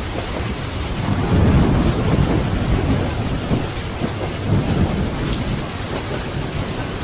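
Steady rain with a low rumble of thunder that swells about a second in and rolls on for several seconds before fading.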